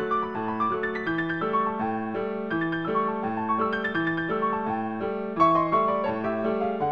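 Piano music: a steady, gentle accompaniment of repeating chords with a melody running over them.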